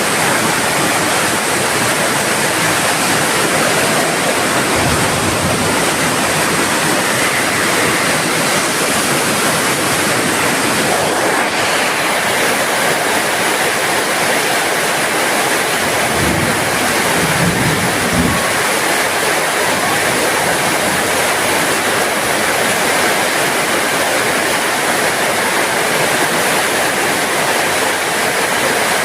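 Heavy rain falling steadily, a dense even hiss with no let-up. A brief low rumble rises under it about two-thirds of the way through.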